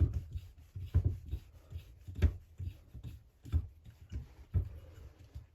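Hand tool working on a chainsaw crankcase's bolts: irregular clicks and light knocks, the strongest about once a second, with faint scraping between them.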